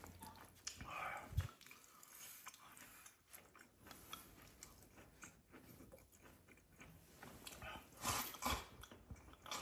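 Faint close-up chewing and biting of a mouthful of glass noodles and rice, a little louder near the end.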